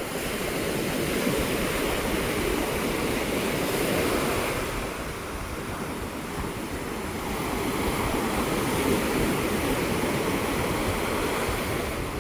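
Heavy sea surf breaking on the shore, swelling and easing twice, with strong wind rumbling on the microphone.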